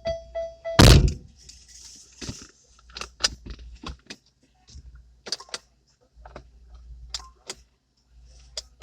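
Inside a car, a steady electronic tone stops at a loud thump about a second in. A scattered run of light clicks, knocks and small rattles follows as things are handled in the cabin.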